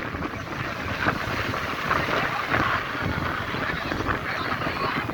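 Strong cyclone-driven wind buffeting the microphone in uneven gusts, over the steady wash of rough surf at high tide.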